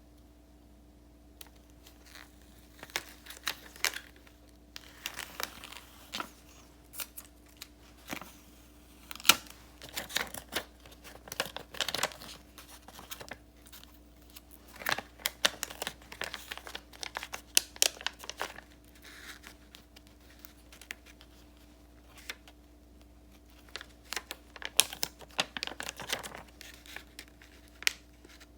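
Paper and sticker sheets being handled and peeled: irregular crinkling, rustling and small sharp ticks, in busy stretches with brief pauses between. A faint steady hum sits underneath.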